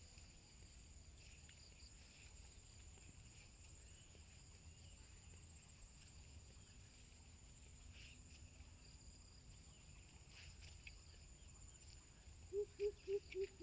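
Faint countryside insect chorus, a steady high-pitched drone, with a few faint scattered ticks. Near the end, a louder low call starts, repeated in quick even pulses about four times a second.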